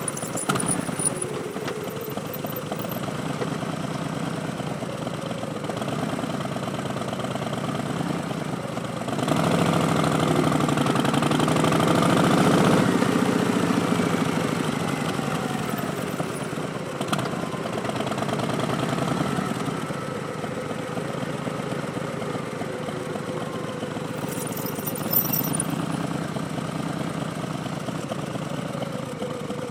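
Harley-Davidson Street Bob's Milwaukee-Eight V-twin engine running at low revs through Vance & Hines Twin Slash slip-on mufflers, mostly a steady idle. About nine seconds in it grows louder for several seconds with the pitch shifting, then settles back.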